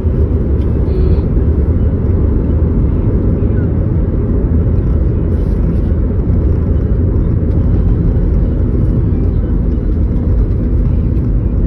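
Steady low rumble of a car driving, heard from inside the cabin: road and engine noise at a constant speed.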